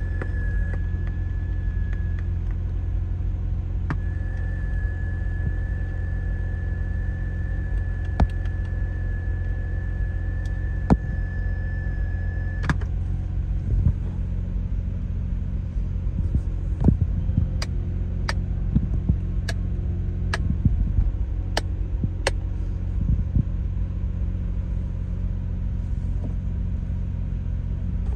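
Mazda RX-7's 13B-REW twin-turbo rotary engine idling steadily, heard from inside the cabin as a constant low rumble. A steady high tone sounds through the first half and cuts off about halfway. Sharp clicks of dashboard buttons being pressed come a few at a time at first, then in quick succession in the second half.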